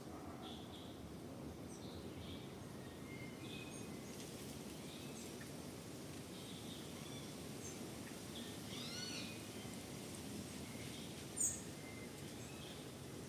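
Birds chirping and calling over a steady low background rumble, with a few arched calls about nine seconds in and one sharp, loud high chirp near the end.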